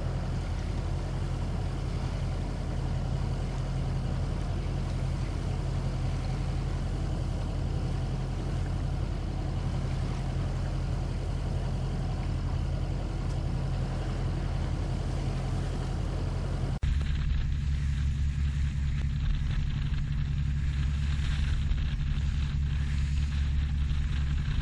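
Inboard diesel engine of a motorsailer running steadily under way, a low drone with some rushing water and wind noise above it. About two-thirds of the way through the sound changes abruptly to a heavier low hum with less hiss.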